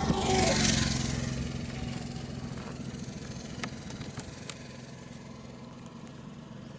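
Motorcycle engine idling with a steady low hum. About half a second in there is a short hiss, and a few light clicks come later.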